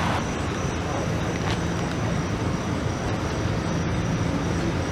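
A car driving, with a steady low engine hum and even road noise.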